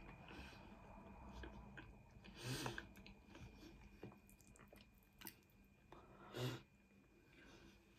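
Quiet, close-up chewing of cheesy garlic bread, with soft mouth clicks and two louder brief sounds about two and a half and six and a half seconds in.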